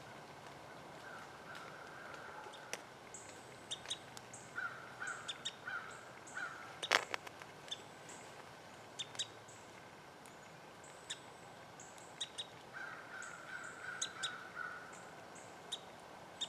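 Crows cawing faintly in three runs, with a small bird's short, high thin call notes and light clicks and ticks of it foraging close by; one sharper snap about seven seconds in is the loudest sound.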